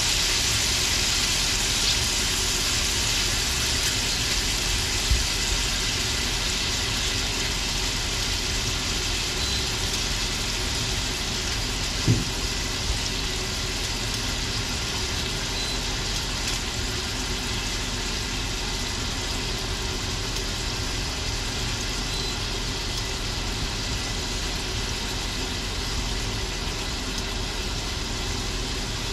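Shrimp sizzling in garlic butter in a stainless steel skillet: a steady hiss that eases slowly, over a steady low hum. Tongs click against the pan twice.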